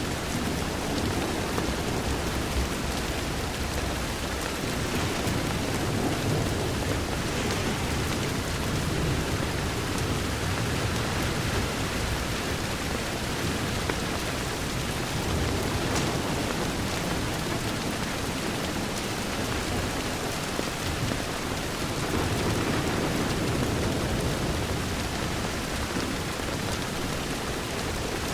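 Steady rain falling on a window, with a low rumble underneath that swells and fades a few times and a few faint sharp clicks.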